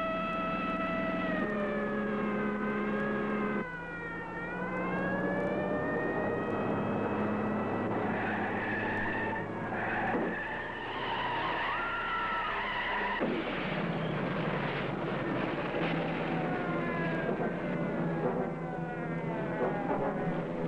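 Car chase: car engines revving and changing pitch as they speed past, with long tire squeals in the middle.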